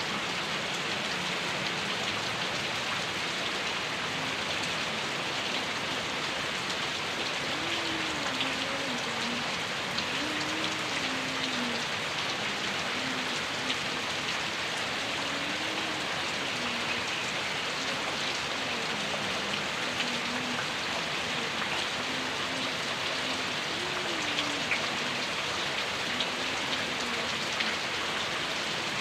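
Heavy tropical rain pouring down steadily, a dense unbroken hiss of rain on surfaces.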